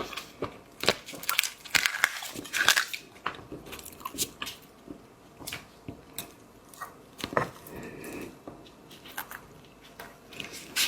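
Close-miked eating sounds of seafood: irregular bites, crunches and wet chewing clicks.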